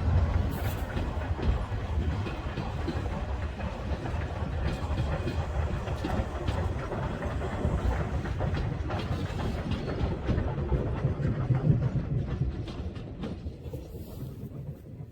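Steam-hauled passenger train rolling past, its wheels clattering over the rail joints in a steady run of clicks, dying away over the last couple of seconds.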